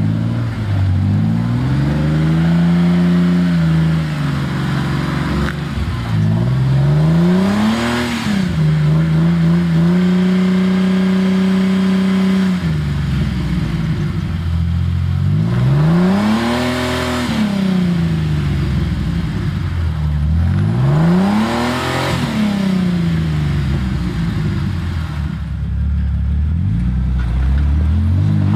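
Off-road Jeep's engine revving up and dropping back again and again while it crawls up a muddy hill under load. About four rises and falls, with a few seconds held at a steady higher speed near the middle.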